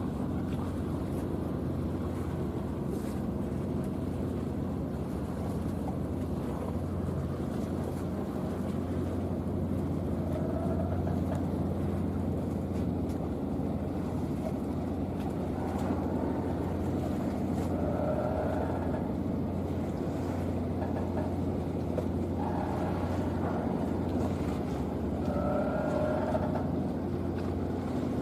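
Engines of the high-speed catamaran passenger ship Hayashio running steadily: an even, low hum, with a few brief, faint higher tones over it now and then.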